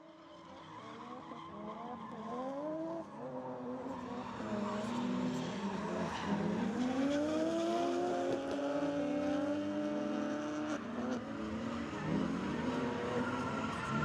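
Drift cars' engines revving up and down, several at once, with tires skidding as the cars slide. The sound starts from near silence and grows steadily louder.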